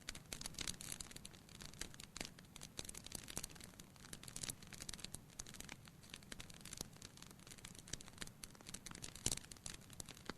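Wood fire crackling: irregular sharp pops and snaps over a soft hiss, with one louder pop about nine seconds in.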